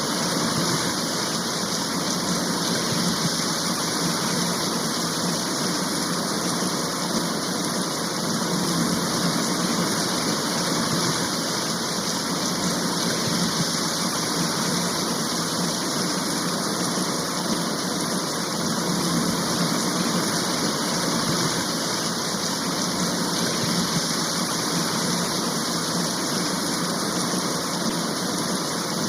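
Steady heavy rain shower, an even hiss that holds the same level without breaks.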